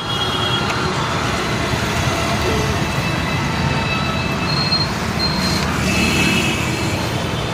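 Steady motor-vehicle noise with no distinct starts or stops.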